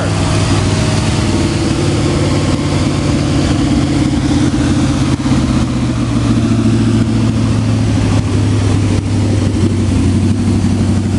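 Carbureted Chrysler New Yorker engine running steadily just after a cold start, its first run after months sitting in the snow.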